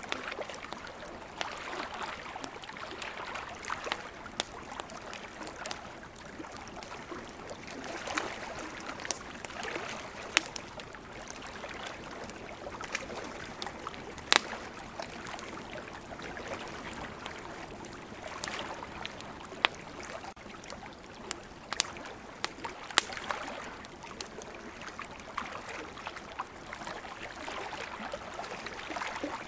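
Campfire crackling, with sharp pops now and then, over ocean waves washing in and swelling every few seconds.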